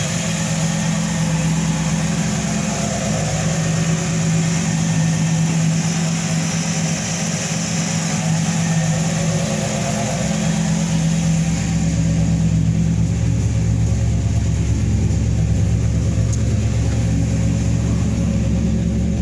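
Carbureted V8 engine of a 1961 Chevrolet Impala running steadily at idle, a little louder over the last third.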